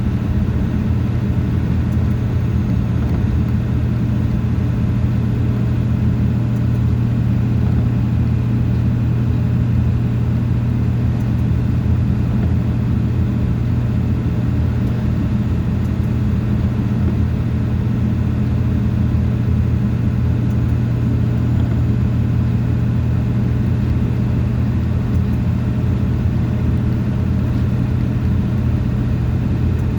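A vehicle cruising at a steady speed: an even, low engine drone over road noise, with no change in pitch or level.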